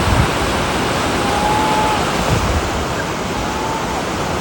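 Steady rush of river water through rapids, with low wind buffeting on the microphone and two faint brief high tones partway through.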